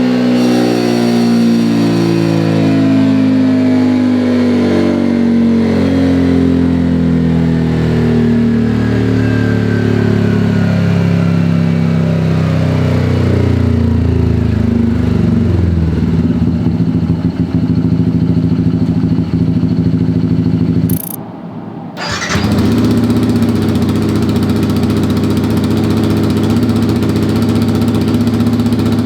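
Motorcycle engine running through an aftermarket EvoX STD carbon-steel exhaust with the DB killer removed. The revs fall slowly and steadily for about fifteen seconds and settle low. After a sudden break about three-quarters of the way in, an engine idles steadily through the same kind of exhaust, now fitted with its DB-killer insert.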